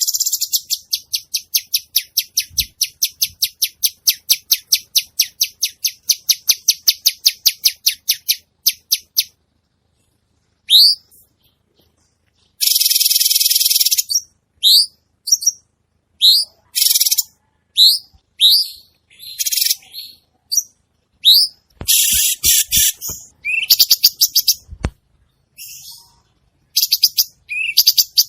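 Cucak cungkok songbird singing vigorously. It opens with a fast, even chatter of about four high notes a second for several seconds, then after a short pause gives short upward-sweeping whistles alternating with harsh buzzy bursts. A few sharp clicks come about two-thirds of the way through.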